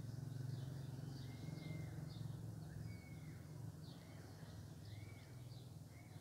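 Small birds chirping in short, repeated calls, over a steady low hum.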